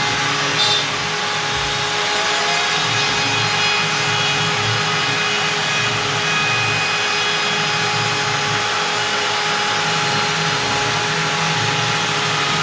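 Stepcraft M1000 CNC router's spindle running steadily at 25,000 rpm, its 4 mm up-down compression bit cutting through beech: a steady tone over an even cutting noise, with a brief louder moment just under a second in.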